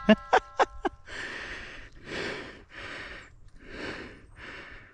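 Four quick, sharp metallic clacks in the first second, a rifle's action being worked to clear a stuck round. Then heavy, out-of-breath panting close to the microphone, about one breath every second.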